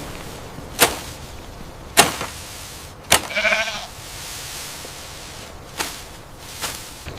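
A goat bleats once, briefly, about three seconds in, over a steady background hiss. Several sharp knocks fall at irregular intervals.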